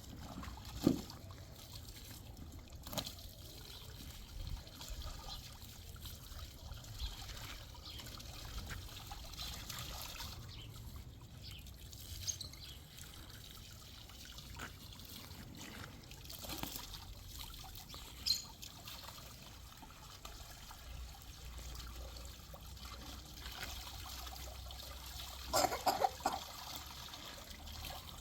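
Water trickling, with scattered light clicks and knocks and a short cluster of louder knocks near the end.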